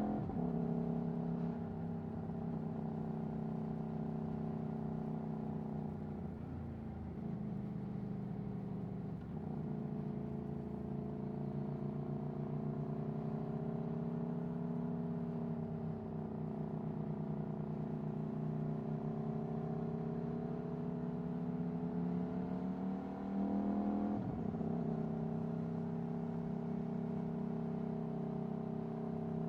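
Aprilia Tuono V4 1100's V4 engine through an Akrapovic Racing exhaust, running at a fairly steady engine speed under way. The pitch drops sharply at the very start, and again about three-quarters through after a short rise, as in a gear change.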